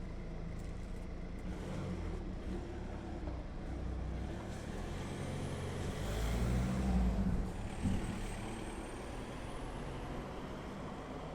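A steady low rumble that swells about six seconds in. Over its second half a faint high whistle glides up and then down.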